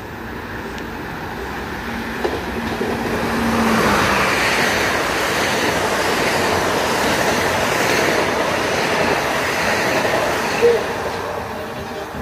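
Metro-North electric multiple-unit commuter train passing at speed, a steady rush of wheels on rails. It swells as the train arrives, holds while the cars go by, and eases off near the end as it pulls away.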